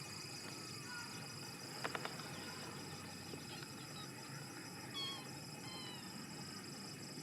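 Kittens mewing faintly, a few short, high mews that fall in pitch, mostly about five to six seconds in. A couple of small clicks come about two seconds in, over a steady background hiss.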